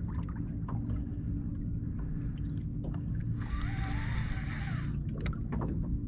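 Steady low rumble of wind and water around a small boat, with scattered light clicks. About three and a half seconds in, a brief rasping squeal with a wavering pitch lasts for about a second and a half.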